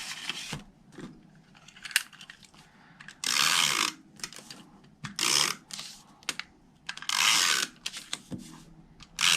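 Adhesive tape runner drawn across paper three times, each stroke a short ratcheting zip, with light clicks of paper handling in between.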